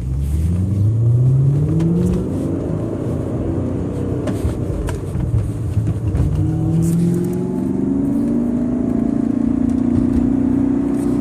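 BMW E39 M5's S62 V8 engine running under acceleration, its pitch climbing in the first two seconds, levelling off, then climbing again from about six seconds in.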